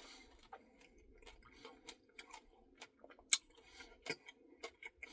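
Faint, scattered mouth clicks and smacks from eating a Dairy Queen Blizzard, with a sharper click about three seconds in.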